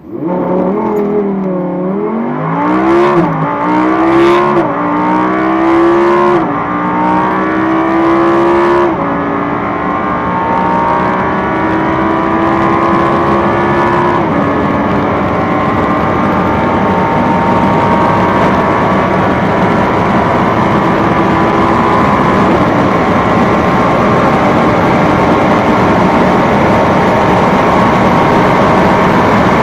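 2017 Audi S8 plus's twin-turbo V8 accelerating hard at full throttle. The engine note climbs and drops back at a string of quick upshifts in the first several seconds. It then rises slowly through one long high gear.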